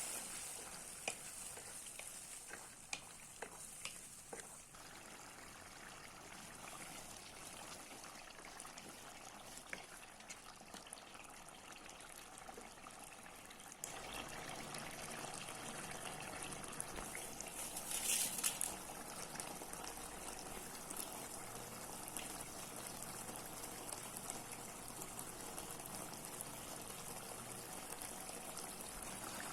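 Chicken korma sizzling and bubbling in a cooking pan, with a few clicks of stirring in the first seconds. The sound steps up louder about halfway through, with a brief louder hiss about two-thirds of the way in.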